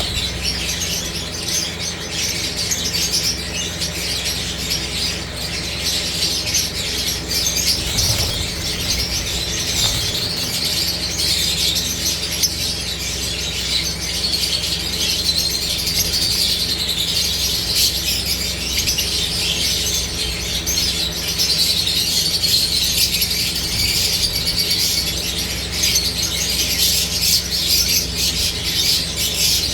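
A flock of Fischer's lovebirds chattering and chirping without a break in a dense, high-pitched din, over a steady low hum.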